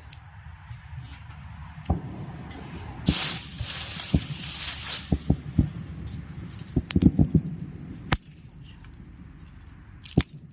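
Small wood campfire with sticks being snapped and handled: scattered sharp cracks and knocks, and a rushing hiss for about two seconds a third of the way in.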